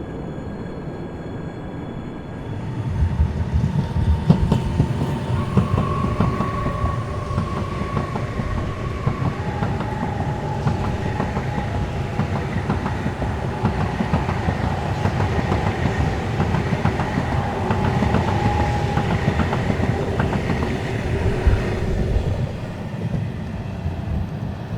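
An Ivolga electric multiple unit running past, its wheels clattering over the rail joints. Over the rumble its traction inverters sing steady tones that step down in pitch about a third of the way through, and the train eases off near the end.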